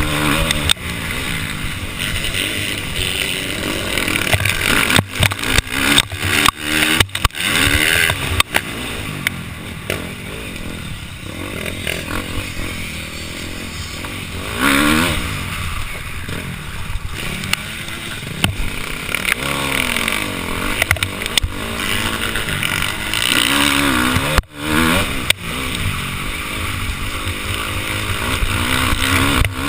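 Motocross dirt bike engine revving up and down as the rider opens and closes the throttle around the track, heard through a helmet-mounted camera with wind noise. Several sharp knocks come through, a cluster about five to eight seconds in and one near the middle of the second half.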